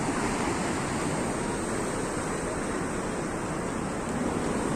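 Sea surf washing onto the beach: a steady rushing noise, with some wind on the microphone.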